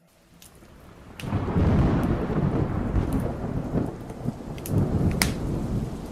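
Thunderstorm: a low rolling rumble of thunder comes in suddenly about a second in, over steady rain. A few sharp crackles from a fireplace fire are scattered through it.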